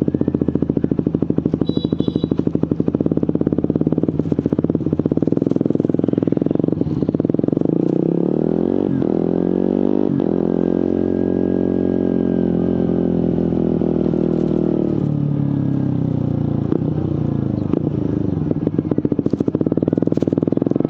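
Suzuki GSX-R150's single-cylinder engine through a Prospeed aftermarket exhaust, running at low revs. About eight seconds in the revs rise and hold for a few seconds, then drop back to a low putter around fifteen seconds. A brief high beep sounds near the start.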